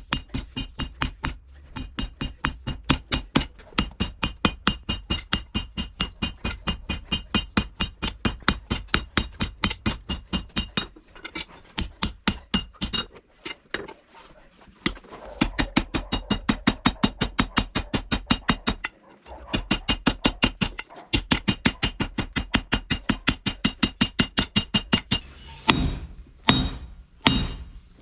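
Rapid, steady hammer blows on hot steel from a thick truck spring, about five a second, each with a metallic ring. The hammering pauses briefly twice, and a few heavier, more spaced blows come near the end.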